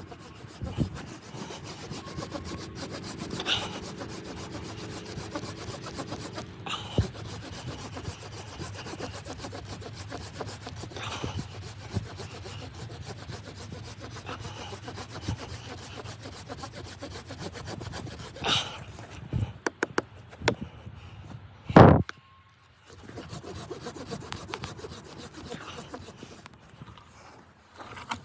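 Continuous scraping and rubbing, like work on wood, broken by a few knocks and one loud thump about 22 seconds in.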